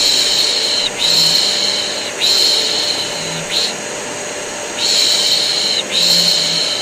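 Rhythmic human shushing, a 'shh' repeated about once a second, over the steady whir of a vacuum cleaner. The mix is white noise for soothing a colicky baby to sleep.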